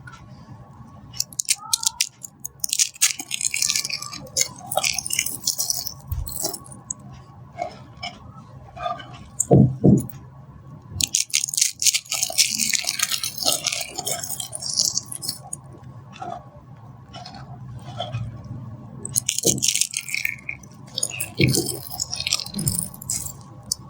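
Dry soap being crushed: crisp crunching and crackling in three long bouts, with scattered clicks and a few soft thuds between them.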